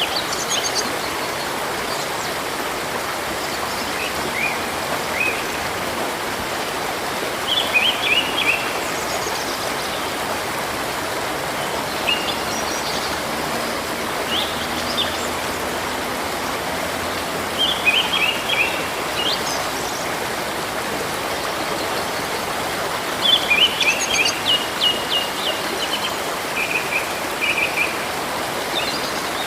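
A river rushing steadily, with small birds singing short, rapid chirping phrases every few seconds over it.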